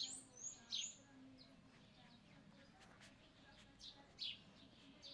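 Faint birdsong: short high chirps, several in the first second and a couple more near the end, over quiet outdoor background.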